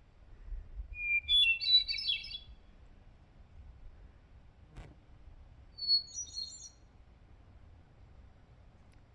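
A small songbird singing two short, high-pitched twittering phrases, the first about a second in and a shorter one near six seconds in. A single brief click comes between them.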